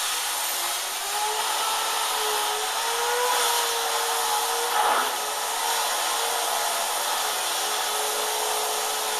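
Compressed air at about 100 psi hissing through the Hoover SteamVac's vacuum-driven water pump, spinning it up. A whine climbs over the first few seconds, then wavers up and down.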